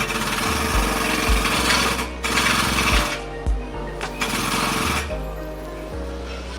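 A power tool running with a fast rattle in several short bursts, the longest about two seconds at the start, over background music with a steady bass beat.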